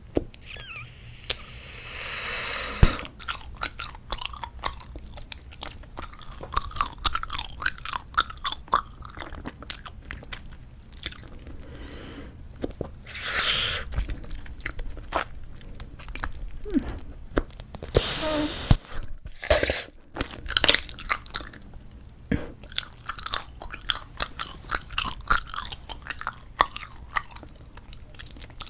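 Squeeze-tube bubblegum chewed close to the microphone: a steady run of wet, sticky clicks and smacks, broken a few times by a longer breathy rush of air, one ending in a sharp snap near the start.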